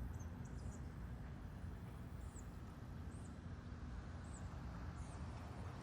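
Quiet outdoor lakeside ambience: a steady low rumble with short, high chirps about six times, roughly one a second.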